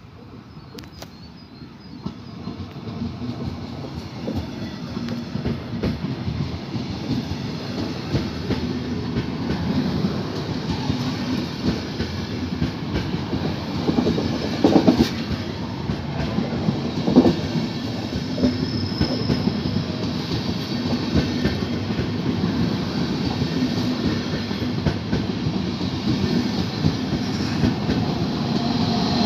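A train rolling along the platform, getting louder over the first several seconds and then holding steady, with wheels clattering over the rail joints and two louder clanks about halfway through.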